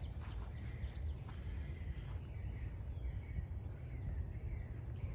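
Songbirds chirping and calling, short repeated notes, over a steady low rumble.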